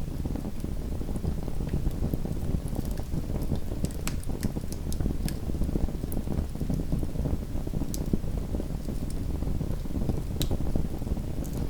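Small wood fire burning in a fireplace: a steady low rush of flame with scattered sharp crackles and pops, a few louder ones standing out about four, eight and ten seconds in.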